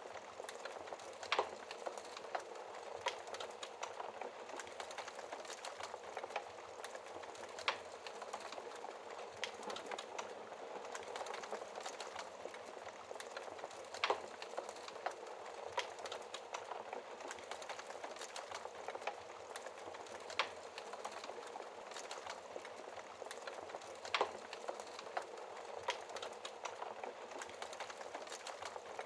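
Wood fire burning in a fireplace: a steady soft hiss with frequent small crackles and a few louder pops every several seconds.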